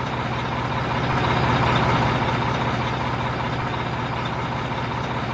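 Diesel engine of a concrete mixer truck running steadily, with a low rumble.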